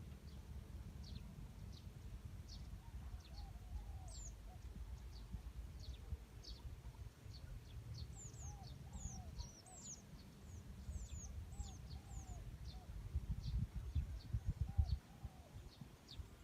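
Birds chirping with many short, quick high notes and some lower arching calls, over wind buffeting the microphone that comes in stronger gusts near the end.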